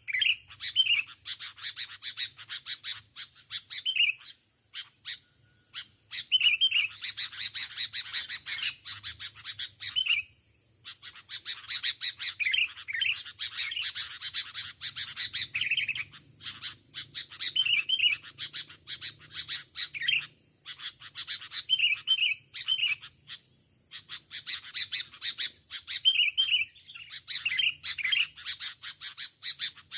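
Sooty-headed bulbuls (kutilang) chattering rapidly and calling, with short whistled phrases repeated every couple of seconds.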